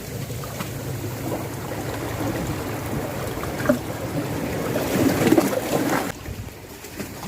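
Wind buffeting a phone microphone over the sound of sea waves at the shore, swelling and then dropping off sharply about six seconds in.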